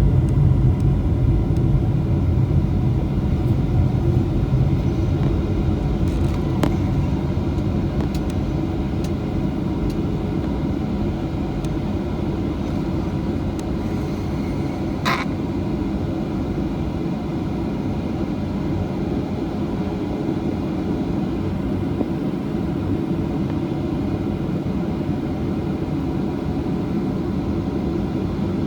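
Cabin noise of a Boeing 737-800's CFM56-7B jet engines at high thrust, typical of the takeoff and initial climb. A heavy low rumble eases over the first several seconds into steady engine noise, with one brief higher-pitched sound about halfway through.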